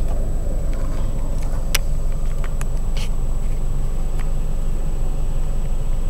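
Steady low rumble of a 2001 Honda Prelude's 2.2-litre four-cylinder engine running at low revs in drive, heard inside the cabin, with a few faint clicks.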